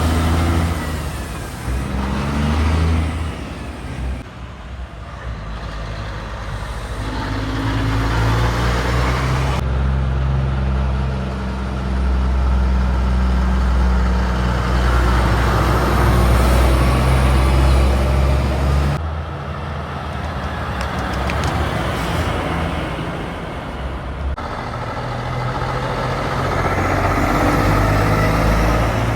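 Heavy trucks driving past on the highway one after another, their diesel engines running with a low engine note and tyre noise. The loudest pass comes in the middle, and the sound changes abruptly a few times.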